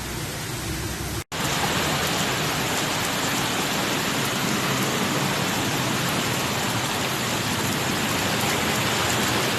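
Heavy rain pouring down in a steady hiss, broken by a sudden momentary dropout about a second in, after which it carries on louder.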